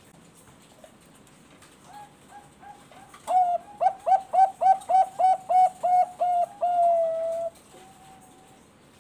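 Zebra dove (perkutut bangkok) singing: a few soft coos about two seconds in, then a run of about ten loud, quick coos, roughly three a second, ending in one longer drawn-out note.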